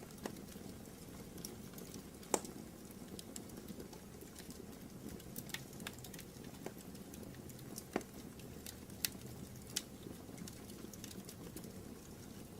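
Wood fire crackling in a fireplace: a low steady rush with scattered sharp pops and snaps at irregular times, the loudest about two seconds in.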